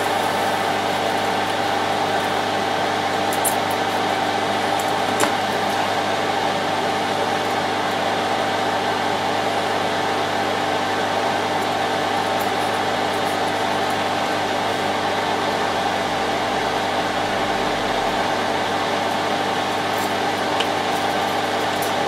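Solder fume extractor fan running steadily: an even whirring hum with a steady whine in it, and a couple of faint ticks.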